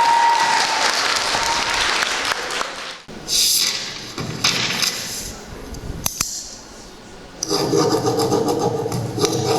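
Audience applause as the last held note of the song fades out. The clapping stops abruptly about three seconds in, followed by a few brief rustles and a sharp click. About seven and a half seconds in, a louder new sound with several steady tones begins.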